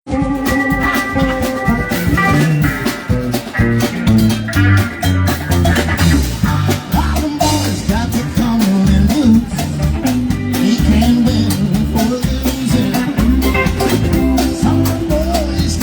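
A live rock band playing a song with electric guitar, bass and drum kit, with a steady beat.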